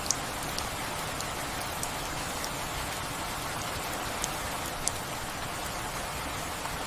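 Steady rain falling, an even hiss with a few separate drops ticking sharply now and then, most clearly near the start and about four and five seconds in.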